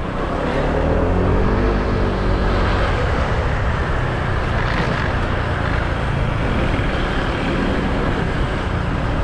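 Motorbike riding in city traffic: steady engine, wind and road noise, with the engine note bending up and back down in the first two seconds.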